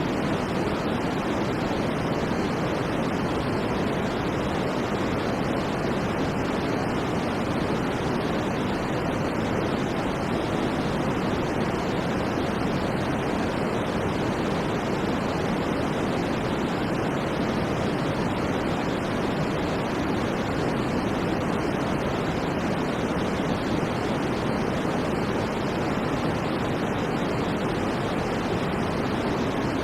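Steady electronic white noise: an even, unchanging hiss with most of its weight in the low and middle range and little at the very top.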